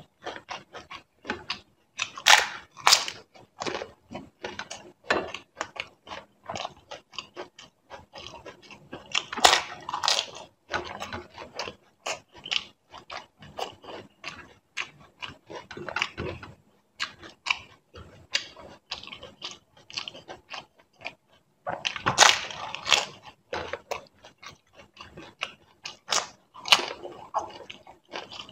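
Close-up chewing and crunching of crisp fried pani puri shells, a dense run of small wet crackles. There are louder crunching bursts about two, ten, twenty-two and twenty-seven seconds in.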